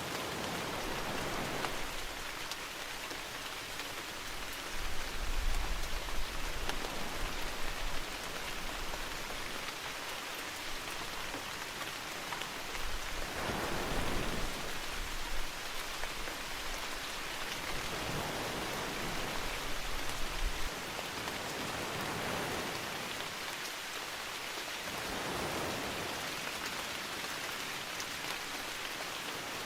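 Steady heavy rain falling on foliage, its hiss swelling and easing slowly, with a low rumble rising twice.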